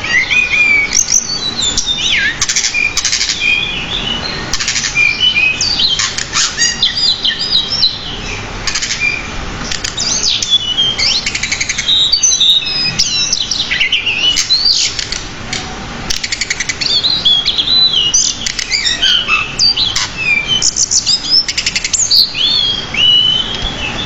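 Pied bushchat (decu) singing continuously in a fast, varied stream of chirps, rising and falling whistles and rapid buzzy trills, with hardly a pause. It is the lively non-stop song, full of inserted phrases, that bird keepers play as a tutor recording for young songbirds.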